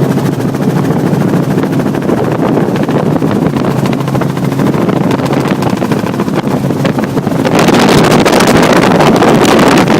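Helicopter rotor and engine running steadily, heard from on board. About three-quarters of the way through it gets louder, with a rush of wind noise on the microphone.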